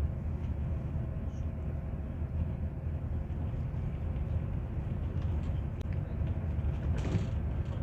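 Scania Touring HD coach running, a steady low rumble with a faint hum above it, and a brief hiss about seven seconds in.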